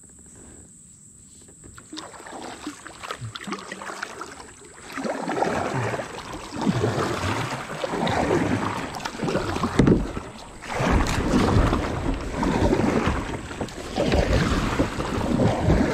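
Kayak paddle strokes, with water swishing and splashing in a repeated rhythm about every one and a half seconds, starting a few seconds in; some wind on the microphone.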